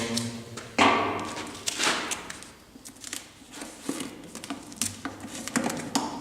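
Cloth tape pulled off the roll with a sudden loud rip about a second in, then torn and pressed down with scattered crinkling and ticks.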